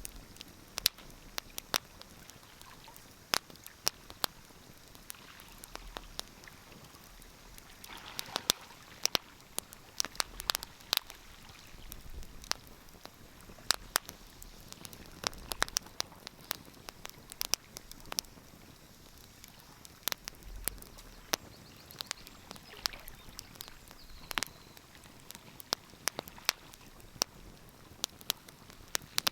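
Wood fire crackling in a fireplace: irregular sharp pops and snaps over a faint steady hiss, with a short burst of hissing about eight seconds in.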